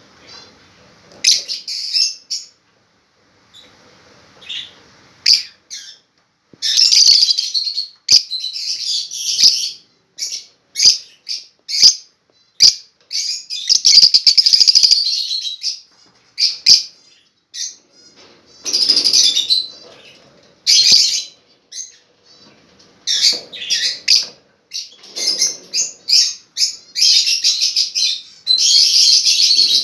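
Small pet parrots kept as love birds chirping and chattering in shrill, high-pitched bursts, at times almost continuous, with a few sharp clicks in between.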